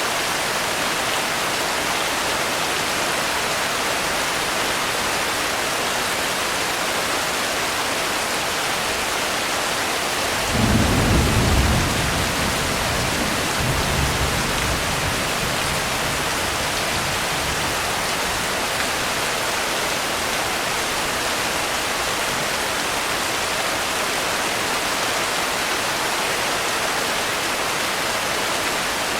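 Steady heavy rain, with a short low rumble of thunder about ten seconds in and a weaker one a few seconds later.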